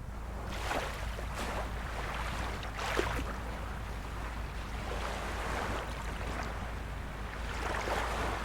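Small waves of a calm sea lapping and splashing, with irregular little splashes every second or two over a steady wash and a constant low rumble underneath.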